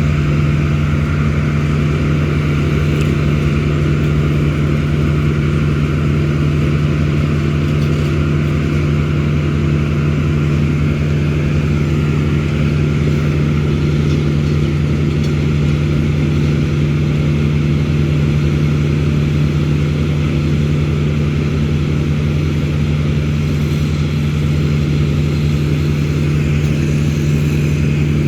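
An engine running steadily at one constant speed, with a strong low hum that neither rises nor falls.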